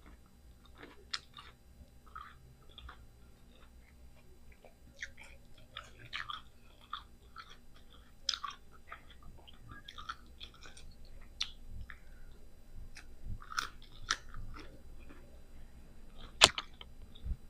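Close-miked chewing and biting of crisp green mango slices with bagoong: irregular wet crunches and mouth clicks, with one sharp, much louder click about a second before the end.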